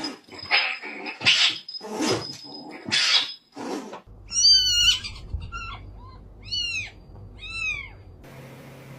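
A cat meowing: four short, high-pitched calls that rise and fall in pitch, in the second half, after four rough, noisy bursts.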